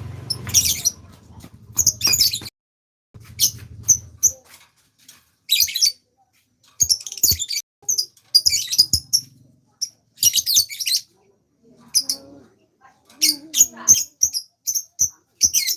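Songbird chirping in repeated bursts of quick, high notes, with short pauses between the bursts.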